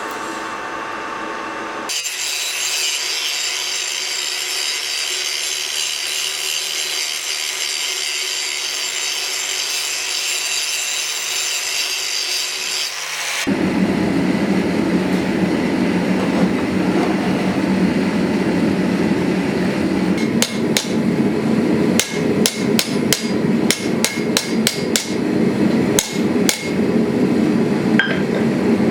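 Hammer blows on steel during forging of a Bowie knife blade: a run of sharp, irregular, fairly rapid strikes from about twenty seconds in. Underneath is a steady rushing noise that turns lower and louder about halfway through.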